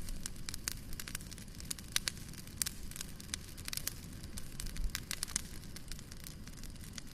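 Fire burning in a fireplace, crackling with irregular sharp pops over a low steady rumble.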